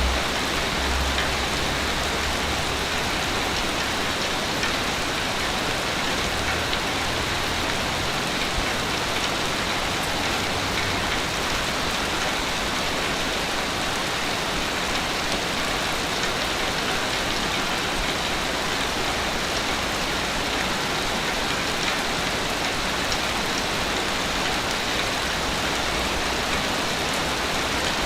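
Sea waves washing on a beach: a steady, even hiss of surf with no distinct breaks or swells standing out.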